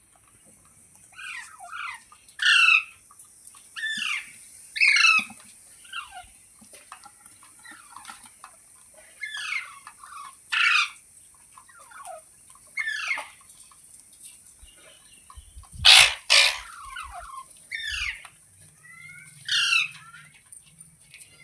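Parrot giving a series of short, harsh calls, each falling in pitch, repeated every second or so. About sixteen seconds in comes a louder, harsher double burst. A steady high hiss runs underneath.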